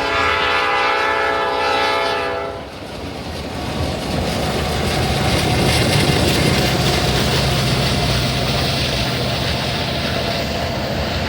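A train horn sounds a held chord for about two and a half seconds. It gives way to the steady rumble of a train running past, with a low hum underneath.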